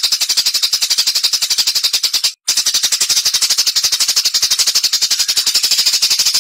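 A small songbird giving a fast, unbroken run of sharp, high chips, about a dozen a second. The run breaks off briefly about two and a half seconds in, then starts again. This is the rapid-fire 'tembakan' call used in masteran recordings for competition birds.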